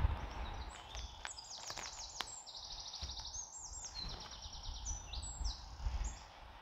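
A songbird singing a long, high-pitched song of rapid trills lasting about five seconds, with a few soft knocks and footsteps on the forest floor beneath it.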